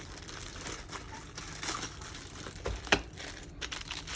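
Packaging crinkling and rustling as the parts of a boxed toy diorama are handled and unpacked, with a sharp click or knock about three seconds in.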